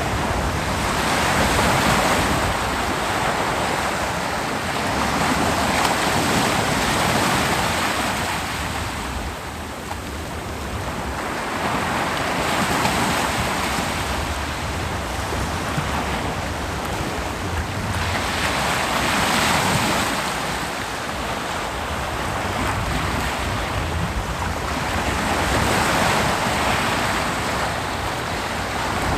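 Ocean surf: waves breaking on a beach and washing back, a continuous rush that swells about every six seconds.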